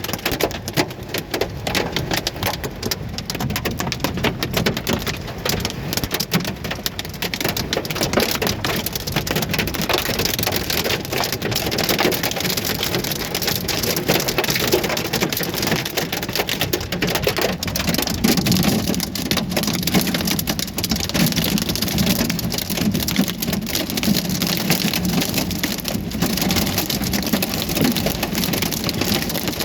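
Hail and heavy rain pelting down, a loud, steady clatter of countless small impacts on surfaces, with a heavier low drumming from about two-thirds of the way in.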